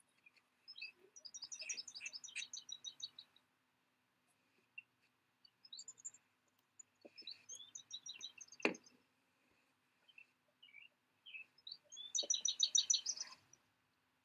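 Songbird singing outdoors, faint through a video-call microphone: three phrases of rapid, repeated high chirps several seconds apart. A sharp click comes about two-thirds of the way through.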